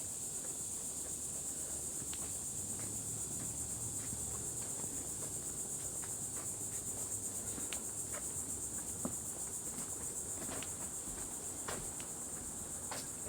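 Steady high-pitched chorus of insects, a continuous buzzing trill, with scattered faint clicks underneath.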